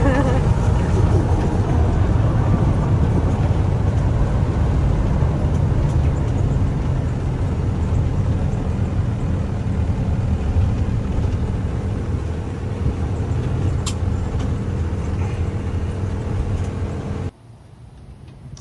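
LNG-fuelled Mack roll-off truck's engine running steadily with a deep, even hum; the sound cuts off suddenly near the end.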